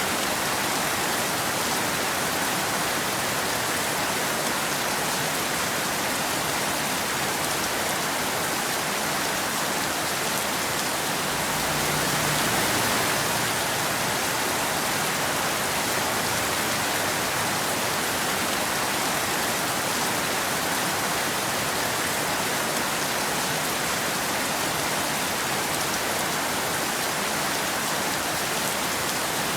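Steady rain falling, an even hiss of drops with a slight swell in loudness about halfway through.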